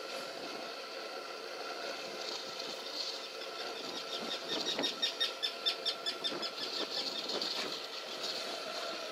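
A bird calls in a fast run of short, high, evenly repeated notes, about five or six a second, starting about three seconds in and lasting several seconds, over a steady faint hum.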